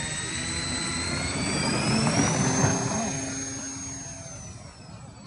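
Motors and propellers of a homemade foam RC C-130 Hercules model running with a high whine. The whine rises in pitch as the throttle comes up, holds, then eases down near the end.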